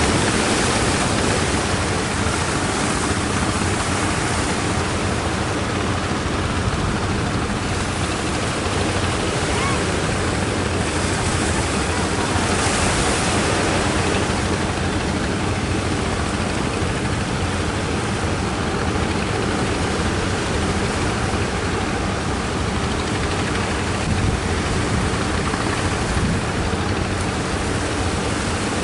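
Strong wind blowing across the microphone together with the wash of sea surf: a steady, unbroken noise.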